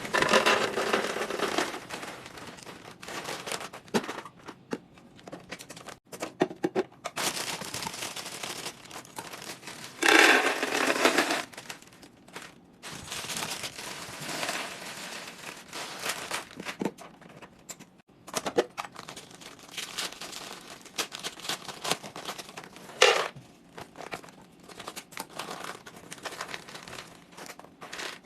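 Plastic packaging crinkling and rustling as groceries are unpacked and handled, with scattered clicks and knocks of containers being set down. The loudest rustle comes a little over a third of the way in, and a sharp click falls about four-fifths of the way through.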